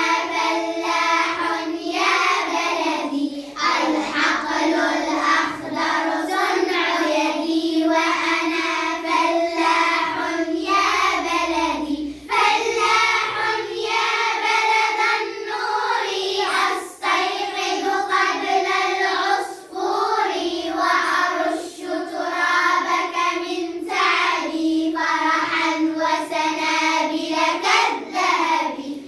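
A group of young children singing an Arabic school song together in unison, in phrases a few seconds long.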